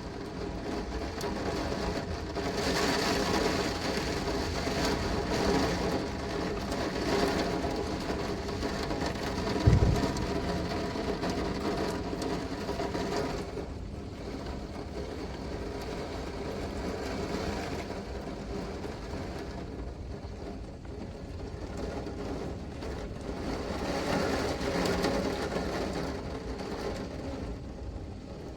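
Heavy rain with gusting wind, a dense steady rush that swells and eases in waves. There is a short low thud about ten seconds in.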